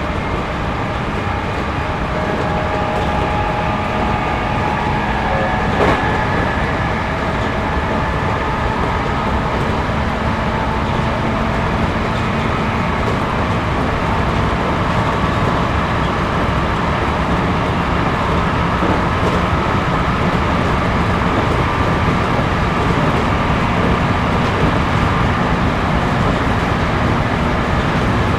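Cabin running noise of a JR Series 211-5000 electric multiple unit under way: a steady rumble of wheels on rail with faint whining tones from the running gear. There is one sharp click about six seconds in.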